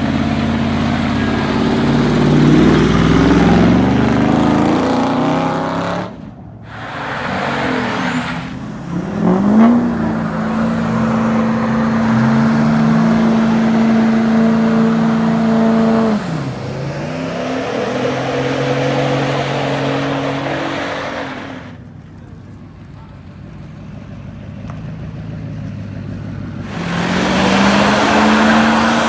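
Truck engines accelerating and running, pitch climbing in steps as if through gears, dropping away and holding steady. The sound goes quieter twice and builds again near the end.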